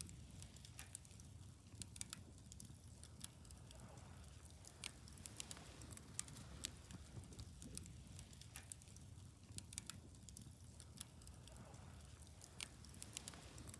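Wood bonfire crackling, with sharp pops at irregular moments over a faint low rumble.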